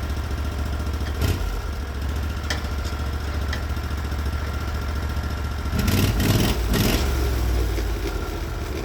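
Engine of a Norwood HD36v2 portable bandsaw mill running steadily, with a few short knocks and a louder clatter about six seconds in.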